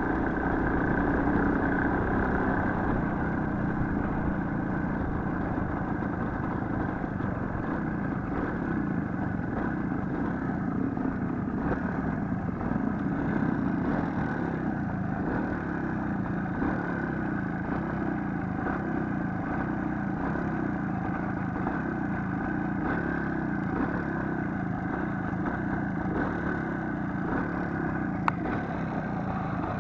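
Small motorcycle engine running steadily, with a single sharp click near the end.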